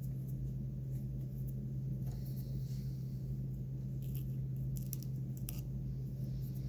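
Double-edged razor blade scraping and cutting old hackle and thread off a foam popper: a few faint short scratches and clicks, over a steady low hum.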